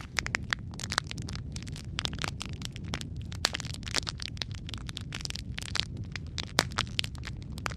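Wood fire burning in a fireplace, with frequent sharp crackles and pops over a steady low roar of flames, one louder pop near the end.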